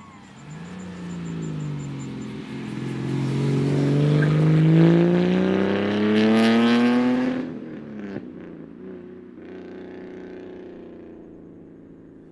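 Mercedes-Benz 220SL prototype's engine accelerating in one long, rising pull that grows louder, then dropping off abruptly about seven seconds in, followed by a quieter engine note that fades away.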